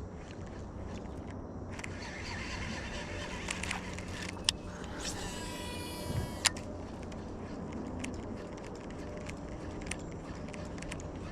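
A fishing cast with a baitcasting reel: a sharp click, then the spool whirring for about a second and a half as line pays out, ending in a second sharp click as the reel is engaged, over steady river noise.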